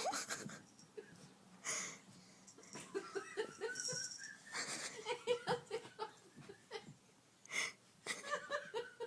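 A person laughing in bursts of quick, repeated ha-ha pulses with breathy, wheezy intakes between them.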